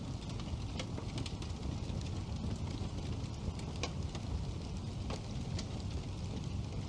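Wood fire burning in a fireplace: a low steady rumble of flame with irregular sharp crackles and pops from the burning logs.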